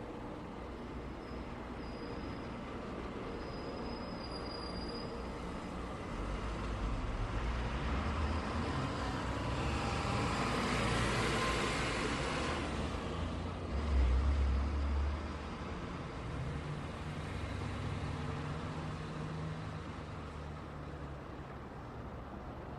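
Steady hum of road traffic going by. One vehicle's passing noise swells to a peak around the middle and fades, followed by a short, loud low rumble, then a low engine drone from a heavier vehicle.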